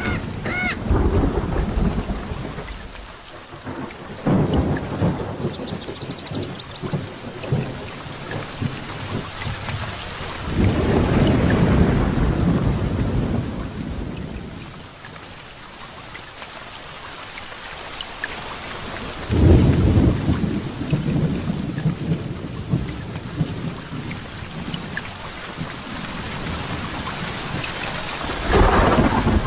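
Thunderstorm: steady rain falling, with thunder rumbling and rolling several times. The loudest thunder comes suddenly about two-thirds of the way through.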